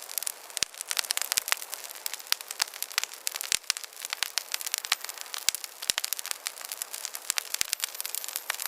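Small campfire crackling: dense, irregular sharp pops and snaps over a soft steady hiss.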